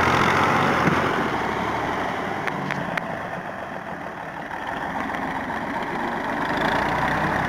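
Tractor engine running at idle. It drops quieter through the middle, with a couple of light clicks, and picks up again near the end.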